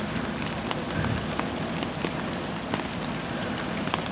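Steady rain, with sharp ticks of single drops striking an umbrella close overhead.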